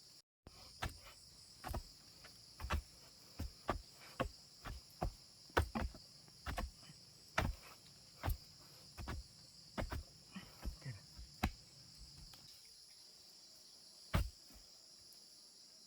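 A series of sharp knocks, roughly one every half second to a second, that stops about twelve seconds in, with one more knock a little after fourteen seconds. Under it runs a steady insect chorus.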